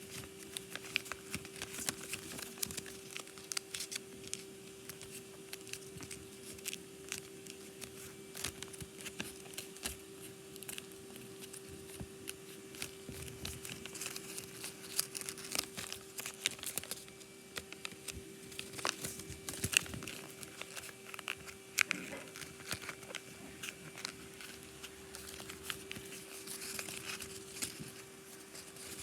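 Sheet of origami paper being folded and creased by hand, with irregular crinkling and crackling and a few sharper snaps of the paper. A steady low hum runs underneath.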